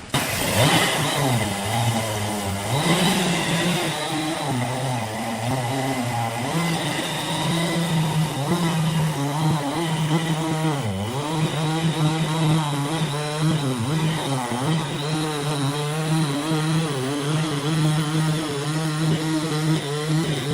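Small engine running at high revs, its pitch wavering and dipping sharply about eleven seconds in as it comes under load.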